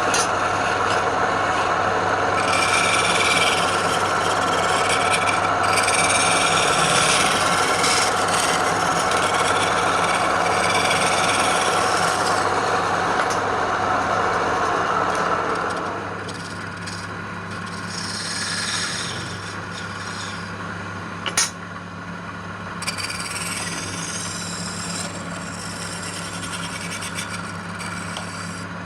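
Wood lathe motor running steadily while the spinning wood is scraped and rubbed in repeated bursts. About halfway through the sound eases and becomes quieter, and there is one sharp click later on.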